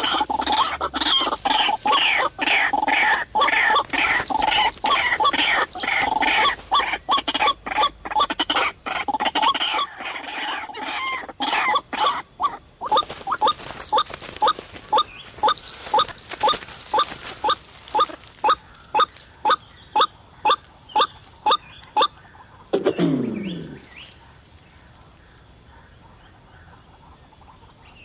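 White-breasted waterhen (ruak-ruak) calling: a rapid, harsh run of repeated calls for about twelve seconds, then a steady series of single notes about two a second. A short downward-sliding sound comes near the end, and after that only faint background remains.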